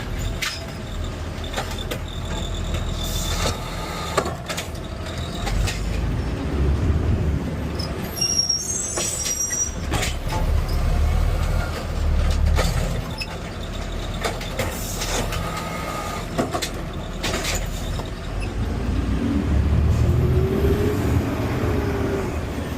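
Garbage truck's pickup arm at work. The engine revs up in surges to drive the hydraulics, over repeated clanks and knocks as the cart is gripped, lifted and dumped, with a brief high squeal about eight seconds in.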